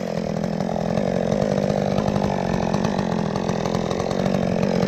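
Chainsaw idling steadily with the throttle released after a cut.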